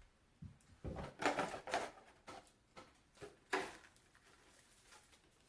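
Eating sounds: a run of short, irregular crunches and crackles of chewing and handling takeout food for about three seconds, loudest a little after a second in and at about three and a half seconds, then quiet room tone.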